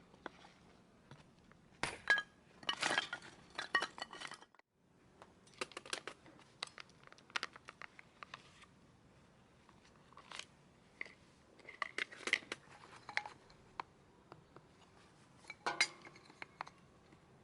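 Irregular clinks, clatters and crinkling as camp cooking gear and food packaging are handled, with a brief break about four and a half seconds in.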